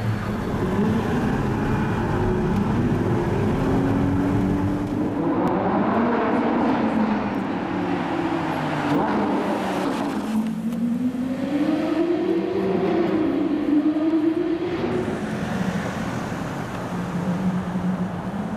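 Lamborghini supercar engines, running steadily at low revs at first, then revving in rising sweeps. About ten seconds in, a Lamborghini Huracán's V10 dips and climbs again in pitch as it accelerates past, and the engine note settles back to a steady run near the end.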